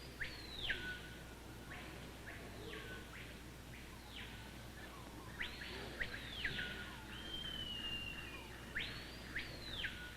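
Bird calls: a repeated high call that leaps up, holds briefly, and drops back down, heard about half a dozen times, with one longer steady whistle in the second half, over a faint low hum.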